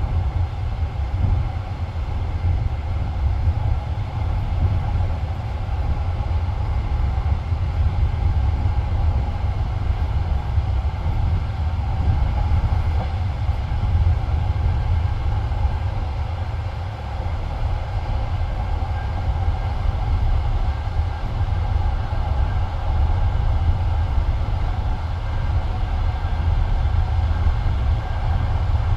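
Passenger railway carriage running along the track, heard from inside: a steady low rumble of wheels and bogies on the rails, with no distinct wheel clicks.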